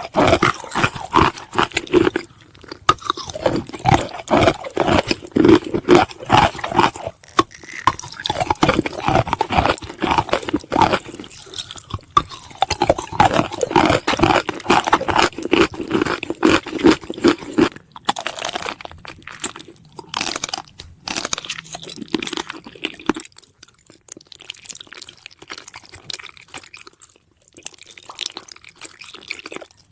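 Rapid, dense crunching and crackling, thinning out to scattered crunches about 23 seconds in.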